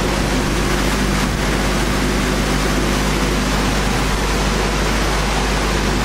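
Sanding machine running on a wood board core: a loud, steady rush with a low hum underneath.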